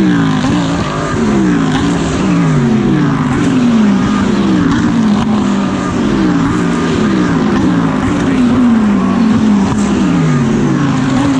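GT3 race cars going past one after another in a close string, about one a second, each engine note falling in pitch as it passes.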